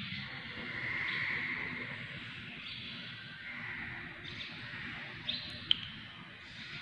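Faint bird chirping, with two short sharp clicks a little after five seconds in.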